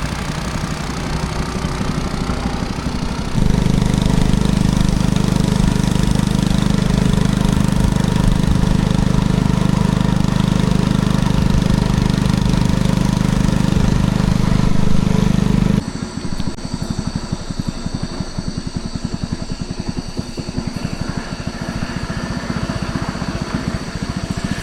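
A boat's motor running steadily. It gets louder and deeper about three seconds in, then changes abruptly about two-thirds of the way through to a quieter, fast-ticking run with thin steady high tones over it.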